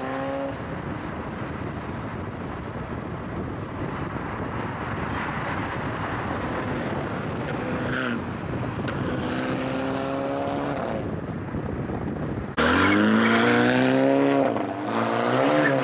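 Car engines revving up and down over a steady hiss of tyre noise. About twelve seconds in, a much louder engine suddenly revs hard close by, its pitch climbing and dipping.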